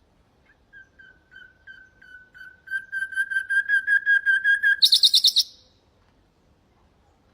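Nightingale singing one song phrase: a run of repeated whistled notes that grows louder and quicker, ending in a brief, very fast high trill about five seconds in.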